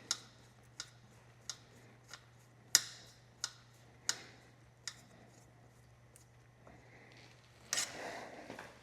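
A series of sharp metallic clicks, about one every two-thirds of a second, from a hand tool working small fasteners, then a short clatter near the end.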